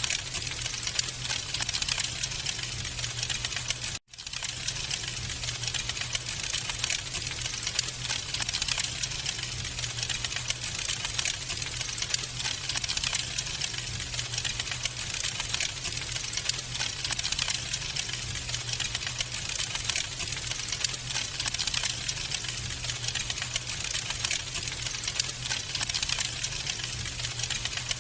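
Wood fire in a fireplace crackling steadily, dense small pops and snaps over a low steady hum. The sound cuts out for an instant about four seconds in.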